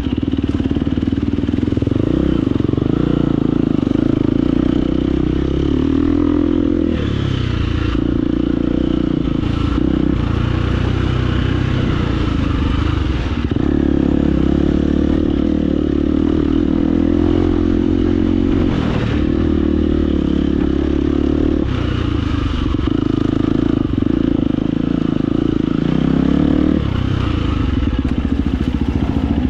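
Husqvarna FE250 single-cylinder four-stroke dirt bike engine running, its revs rising and falling as it picks its way over rocks, with some clatter from the rough ground.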